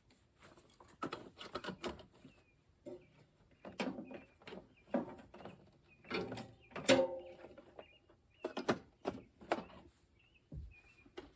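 Irregular knocks and clatters of parts and tools being handled, the loudest about seven seconds in, with faint high bird chirps between them.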